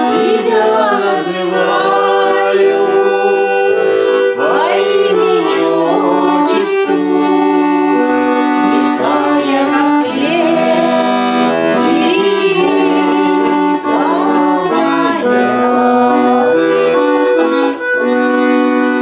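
Russian garmon (button accordion) playing a folk tune, held chords under a moving melody line.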